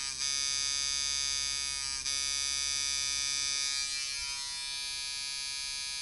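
Coil tattoo machine, set up for lining large groupings, running unloaded at about 4.5 volts with a loud, steady, high buzz, which the operator calls brutal. The buzz stutters briefly near the start and again about two seconds in, then settles slightly quieter about four seconds in.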